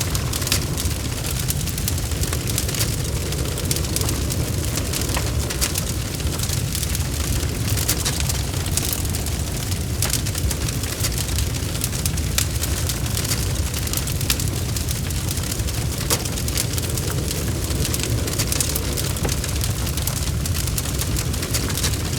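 Log fire burning in a fireplace: a steady low rumble with frequent irregular crackles and pops from the burning wood.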